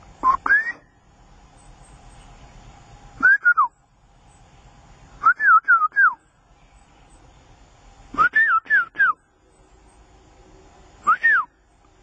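A bird calling with short, loud whistled notes, each rising and then falling, in quick groups of two to four repeated every two to three seconds, with a single note near the end.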